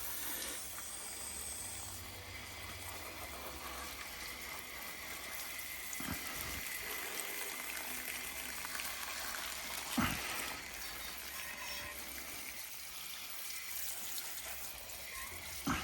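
Water from a hose spraying over a motorbike, rinsing off snow foam: a steady hiss of spray, with three brief knocks along the way.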